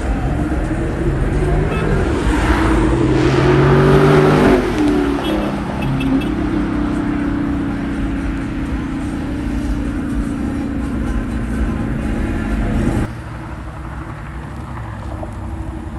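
A motor vehicle engine accelerating hard past, its note climbing in pitch and loudest about four seconds in. A steady engine drone follows and cuts off abruptly about thirteen seconds in.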